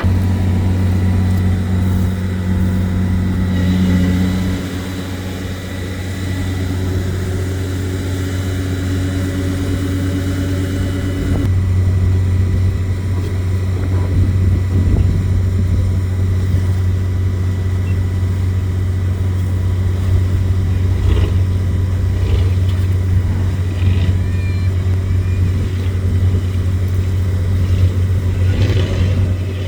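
Heavy off-road trial truck's engine running with a steady low drone, its note changing about 11 seconds in.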